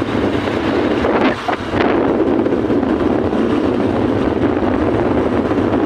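Waterfall's steady rush of falling water, with a brief dip about a second and a half in.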